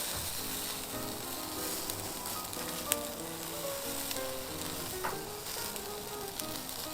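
Yakitori sizzling on a grill over charcoal: a steady hiss with a couple of sharp pops. Soft background music with a simple melody plays underneath.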